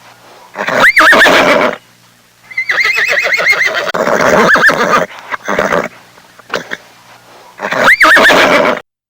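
Horse whinnying several times: a short neigh, then a long whinny with a fast quavering trill, then smaller calls and another short neigh. The sound cuts off abruptly near the end.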